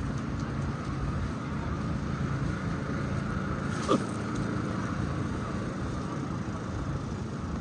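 City street ambience: a steady low rumble of traffic and engines. About four seconds in comes one brief, sharp squeal that drops quickly in pitch, the loudest sound here.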